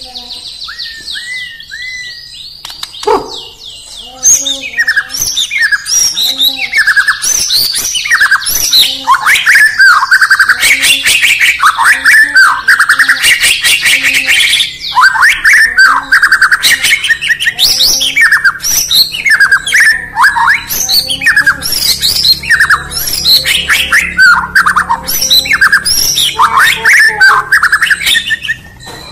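White-rumped shama singing: a long, varied song of rapid whistles, glides and harsh chattering notes, soft at first and turning loud about four seconds in.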